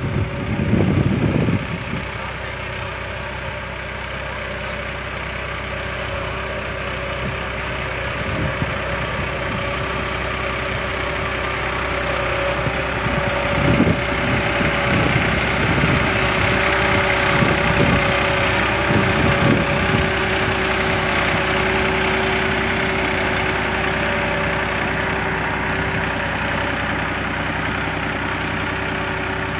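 Tractor engine running steadily, growing a little louder over the first half and then holding even. There are a few short low thumps in the first couple of seconds and again in the middle.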